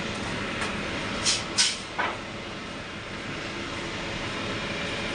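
Steady machine noise, with two short, sharp hisses a little over a second in and a knock just after.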